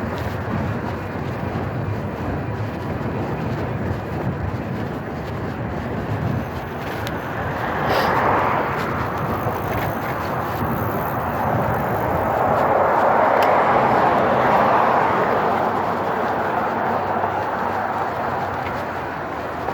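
Outdoor road traffic: a steady rush of noise with vehicles passing, one briefly about eight seconds in and a longer, louder pass a few seconds later.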